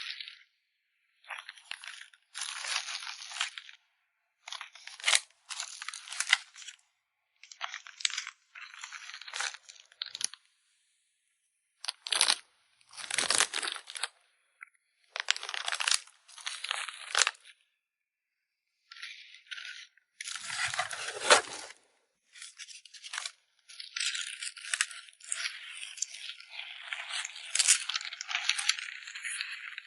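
Plastic packaging crinkling and rustling as photocards are handled and packed, in bursts of a second or two with short dead-silent gaps between them. One sharper knock comes a little past two-thirds of the way through.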